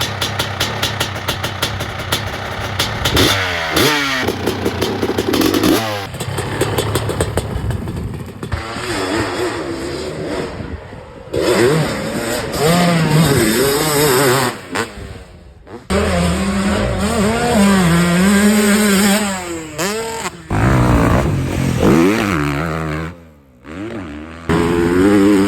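Dirt bike engine revving up and down under riding, its pitch rising and falling again and again, broken by several abrupt cuts.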